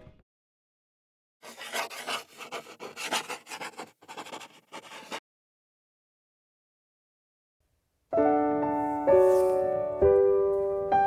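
Irregular rubbing and scraping for about four seconds, then near silence. About eight seconds in, piano music starts.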